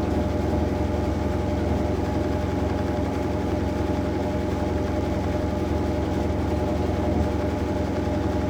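Maytag Bravos MCT top-load washer spinning steadily near the end of its cycle: a constant low motor hum with a steady whine on top.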